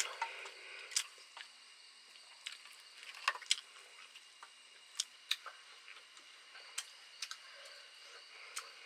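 Irregular sharp clicks and light taps, about a dozen, over a faint steady hiss.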